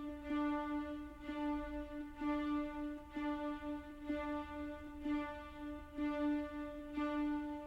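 Orchestral film score: bowed strings hold a single note, with the sound swelling again about once a second in a slow, even pulse.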